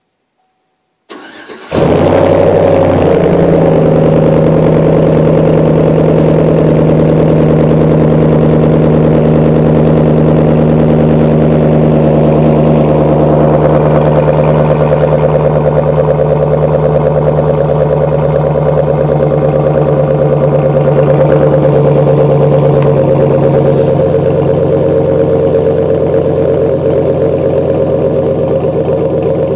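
2009 Chevrolet Silverado's 4.8-litre V8 starting through an SLP Loudmouth exhaust. The starter cranks briefly about a second in, then the engine catches, flares and settles into a loud, steady idle.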